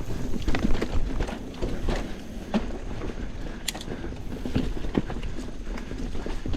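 Canyon mountain bike rolling along a dirt singletrack: irregular knocks and clicks from the tires over bumps and from the chain and bike parts rattling, over a constant low rumble.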